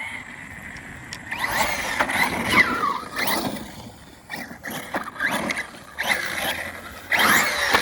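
Brushless electric motor of an Arrma Notorious 6S RC car whining up and down in pitch as it is throttled in several bursts, with the drivetrain and tyres running over dirt and grass.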